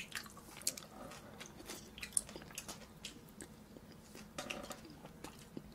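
A person chewing a mouthful of chewy spicy jjolmyeon noodles, with scattered small wet mouth clicks.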